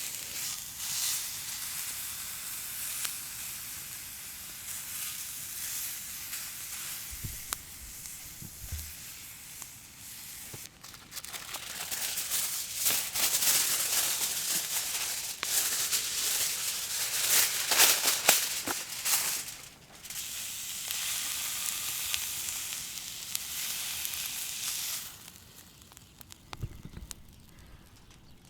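Beef sizzling as it sears in a skillet over a wood fire, with a dense crackling hiss. The sizzle gets louder through the middle and dies down near the end.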